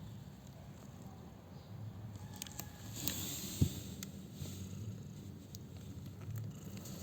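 Faint rustling and small clicks of newborn kittens shifting about in their bedding over a low steady hum, with one soft thump about three and a half seconds in.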